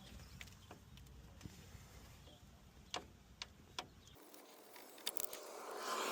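A few faint sharp clicks of plastic push-in retaining clips being pried and popped loose from a 2009 Honda Civic's front-end panels, with louder handling noise near the end.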